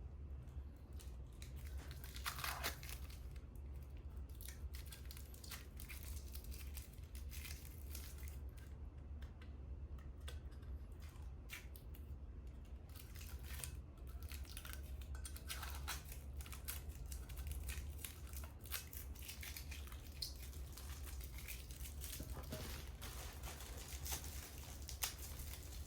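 Crinkling and tearing of packaging, with many scattered small clicks and light knocks as things are handled, over a steady low hum.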